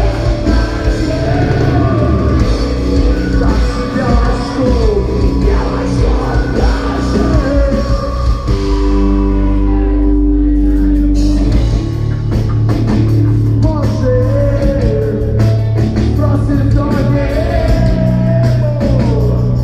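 Rock band playing live, with a sung vocal line over guitars and drums; about halfway through the band drops to held chords for a few seconds, then comes back in full.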